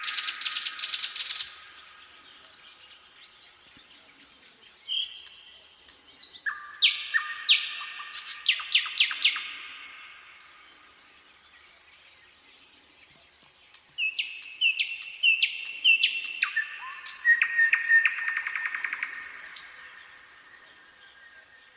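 Nightingale singing: three phrases of rapid repeated notes, trills and clear whistles, each a few seconds long and separated by pauses of several seconds.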